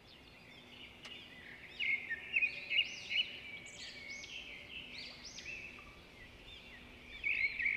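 Songbirds singing, a run of quick chirping, warbled phrases that begins about a second and a half in and carries on.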